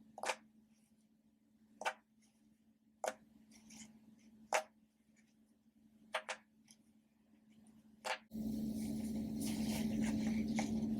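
Ocean-animal popper toys being popped: sharp single pops every one to two seconds, two in quick succession near the middle. About eight seconds in, a loud steady rushing noise with a low hum starts suddenly and covers the rest.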